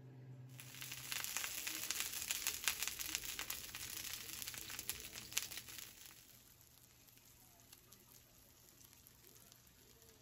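Frozen salmon patties frying in coconut oil in a skillet, sizzling with dense crackling spits for the first half, then settling to a softer steady sizzle.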